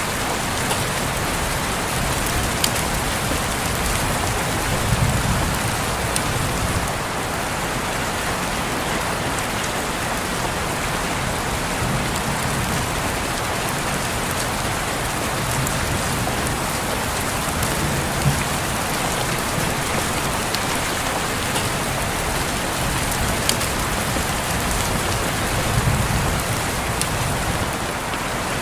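Steady rain falling on a window, an even hiss with scattered sharper drop ticks. Soft low rumbles swell briefly twice.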